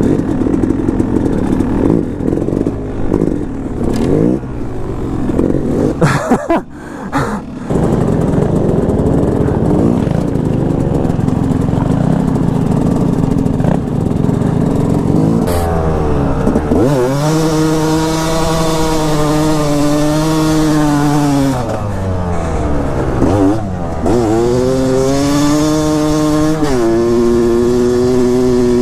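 Dirt bike engine revving hard, its pitch rising and falling as the throttle opens and closes. It holds high revs for several seconds about two-thirds of the way through, drops away, then climbs again near the end.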